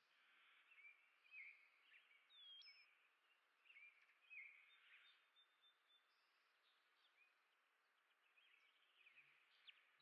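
Faint, scattered chirps and short calls of small songbirds at a feeder, with one clear whistle about two and a half seconds in.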